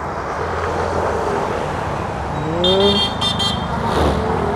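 Steady road traffic noise, with a vehicle engine rising in pitch and a few short, high horn toots about three seconds in.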